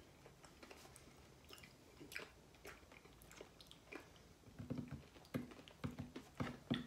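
Faint chewing of a crunchy snack mix of white-chocolate popcorn with waffle and cereal pieces: small irregular crunches and mouth clicks, busier in the second half.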